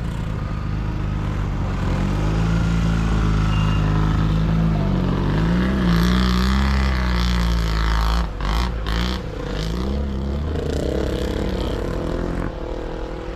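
Sidecar motocross motorcycles racing, their engines revving up and down in pitch as they run the course, with a few short crackles about eight seconds in.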